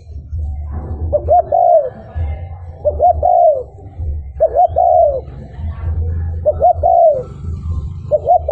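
Spotted dove cooing, its phrase repeated about every one and a half to two seconds: two short notes and then a longer, arched coo, over a steady low rumble.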